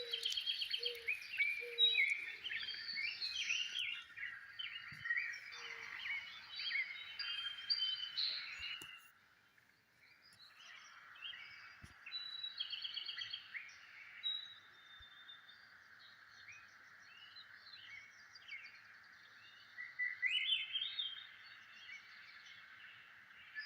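Songbirds chirping and trilling in many short, overlapping calls over a steady background hiss. The sound drops out briefly about nine seconds in, then the calls resume.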